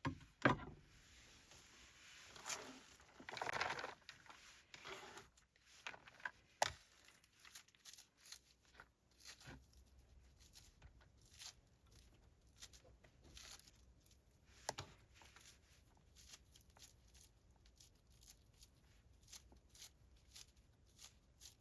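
Faint rustling and crinkling, with the loudest patches in the first few seconds and a sharp snap about seven seconds in, followed by many small scattered clicks: objects being handled up close.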